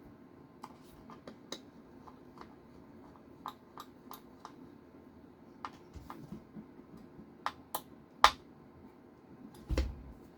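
Scattered small clicks and taps of metal screws and a hex driver being handled while screwing a metal bracket onto an RC car's chassis. There is one sharper click about eight seconds in and a duller knock near the end.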